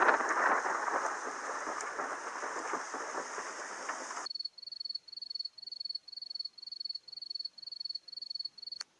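A dense crackling hiss that cuts off suddenly a little over four seconds in, followed by crickets chirping: short high chirps, about three a second, the stock 'awkward silence' sound effect.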